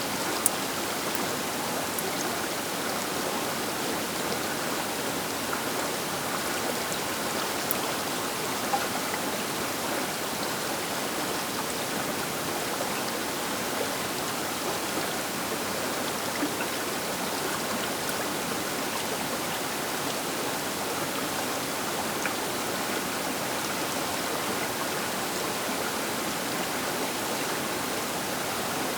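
Baker River flowing, a steady rushing of water with a few faint sharp ticks of splashes, clearest about half a second in and around eight to nine seconds in.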